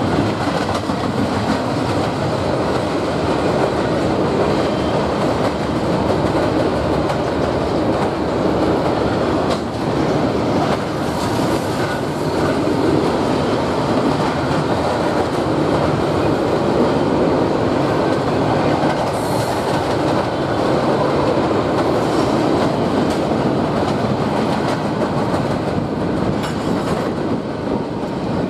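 Freight train rolling past at a steady speed: the continuous rumble and clatter of steel wheels on rail under a string of empty double-stack well cars and autorack cars.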